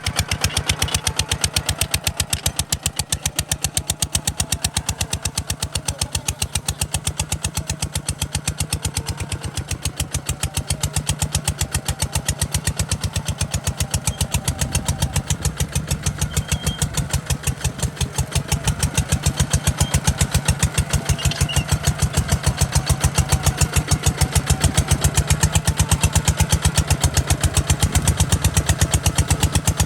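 Kubota RT140 DI single-cylinder diesel engine running steadily with a fast, even chugging beat, growing slightly louder about two-thirds of the way through.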